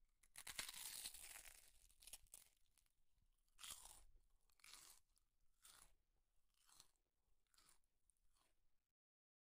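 Close-up chewing of a mouthful of rice and curry eaten by hand. A dense stretch of chewing comes first, then single chews about once a second that grow fainter.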